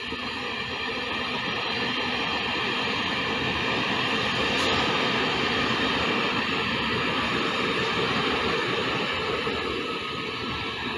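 Electric commuter train running past: a steady rush of wheels and motors that swells over the first few seconds, holds through the middle and eases slightly near the end.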